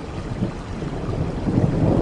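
Low rolling thunder rumbling under steady rainforest rain, the rumble building louder toward the end.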